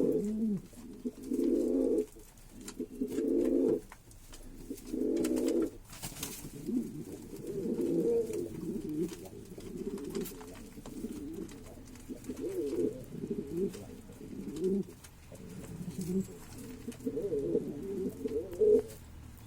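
Pigeons cooing in low tones. Separate coos about a second long come in the first few seconds, then the cooing runs on almost without a break, overlapping and wavering in pitch.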